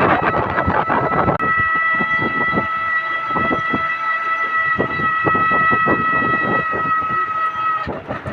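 A horn holds one long steady note from about a second and a half in until near the end, over a loud rumbling, clattering noise with many short knocks.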